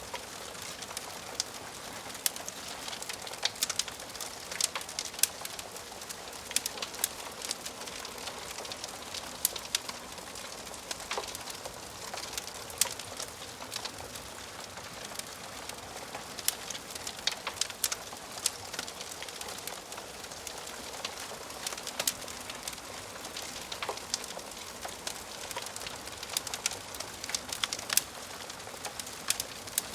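Wood fire crackling in a fireplace: a steady hiss of burning logs with frequent sharp pops and snaps scattered throughout.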